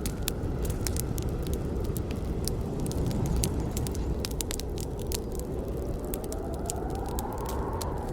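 Wood fire burning with a steady low rumble and frequent irregular sharp crackles and pops from the burning wood. A faint whistle slowly rising in pitch comes in over the last few seconds.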